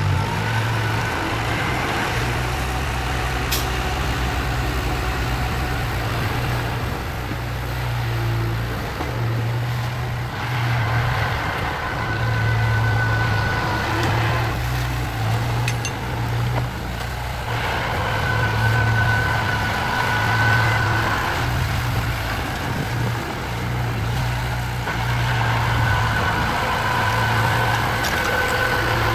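Heavy vehicle engine running steadily, its low hum pulsing slightly, with a faint whine that comes and goes every few seconds.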